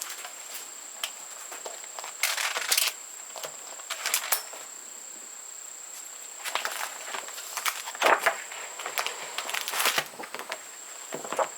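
Irregular rustling and sharp clicks of things being handled, in short clusters, over a steady high-pitched whine.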